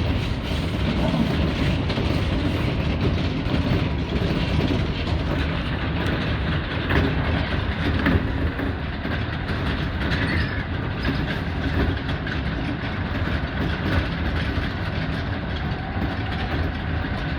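Electric commuter train running on the line, heard from inside the front car: a steady rumble with wheels clacking over rail joints, and a faint whine in the second half.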